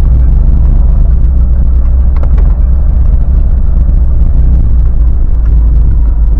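Lada Niva Legend driving, a loud, steady low rumble of engine and running gear.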